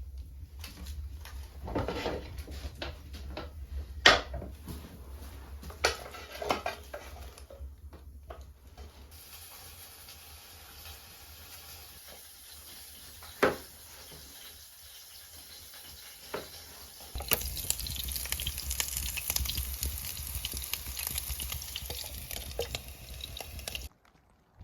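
Cooking sounds: scattered clinks and knocks of pots and utensils, then a steady sizzle with crackling that gets louder about two-thirds of the way through and stops abruptly just before the end.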